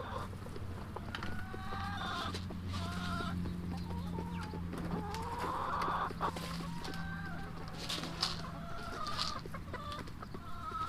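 Backyard chickens clucking and calling, many short overlapping calls, with scattered clicks and a steady low hum underneath.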